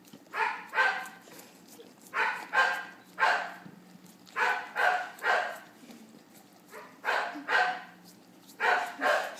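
Dog barking in short runs of two or three barks with pauses between, six runs in all.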